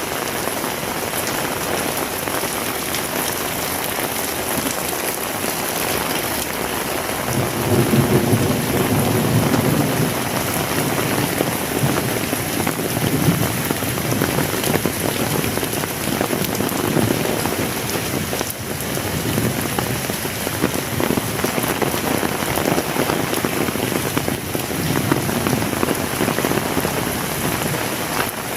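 Heavy rain falling steadily. From about seven seconds in, a low rumble joins it and keeps coming and going.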